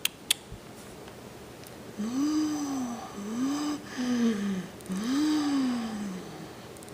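Volkswagen Passat 1.8T four-cylinder engine revved four times in quick succession, each rev rising and falling in pitch, starting about two seconds in, after a few light clicks.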